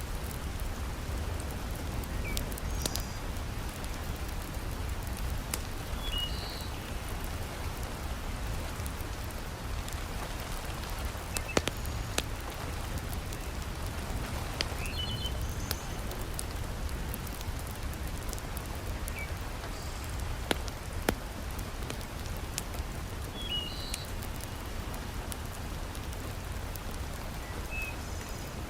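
Heavy rain falling steadily, with a low rumble beneath it and scattered sharp pops and crackles from a wood fire in a fireplace. Faint short high chirps come through every several seconds.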